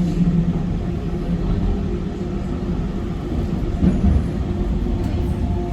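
Docklands Light Railway train running along the track: a steady low rumble of wheels on rail with a constant motor hum, and a brief louder bump about four seconds in.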